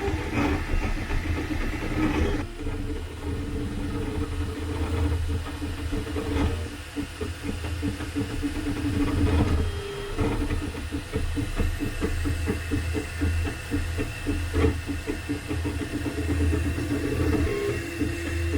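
Dual-extruder 3D printer running, its stepper motors whining in steady tones that shift in pitch every few seconds as the print head and bed change moves, over a low hum and fast pulsing.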